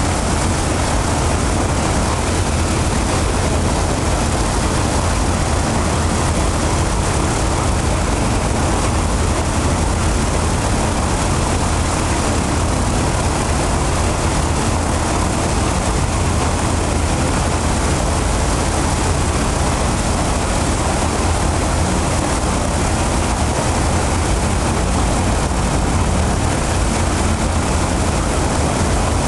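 Ilyushin Il-14's left engine, a Shvetsov ASh-82T radial, running with its propeller turning on a ground run-up, loud and steady throughout.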